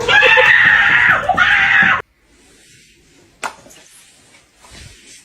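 A loud, high wailing cry that wavers in pitch and cuts off abruptly about two seconds in, followed by a single faint click.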